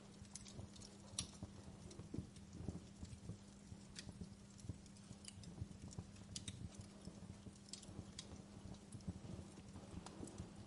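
Wood fire crackling in a fireplace: faint, irregular small pops and snaps over a soft low rumble, with a steady low hum underneath.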